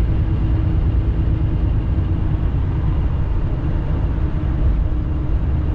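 Steady low rumble of a semi-truck's engine and road noise heard from inside the moving cab at highway speed, with a faint steady hum that fades partway through and returns near the end.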